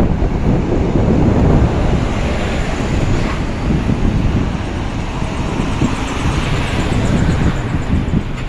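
Wind buffeting the microphone: a loud, unsteady low rumble with no speech.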